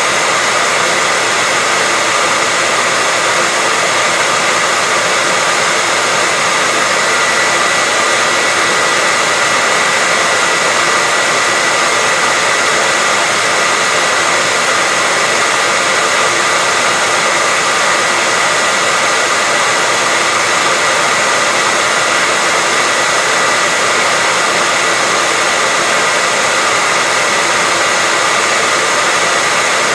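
Hair dryer running steadily: an even rush of air with a steady high whine from the motor and fan.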